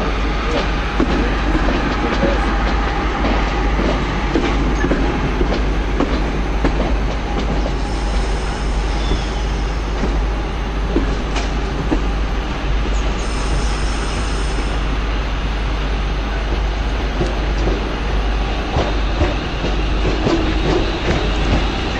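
London Midland multiple-unit passenger train running along the platform, a steady rumble with its wheels clicking and clattering over rail joints and pointwork.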